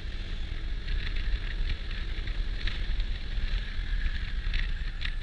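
Honda Dio scooter running, with a steady low rumble and wind noise on the helmet-mounted action camera's microphone.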